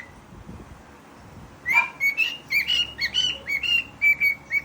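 Cockatiel whistling its song: a quick run of short whistled notes, about four a second, starting nearly two seconds in.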